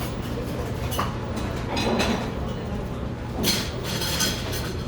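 Café ambience: a steady low room hum with dishes and cutlery clinking, several sharp clinks about one, two and three and a half seconds in.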